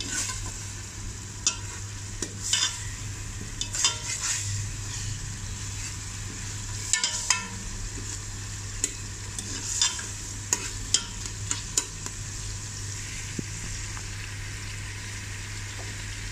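Chopped tomatoes, onions and ginger-garlic paste frying in ghee in an aluminium pot with a steady sizzle. A steel spoon scrapes and clinks against the pot at irregular moments as the mix is stirred, mostly in the first twelve seconds.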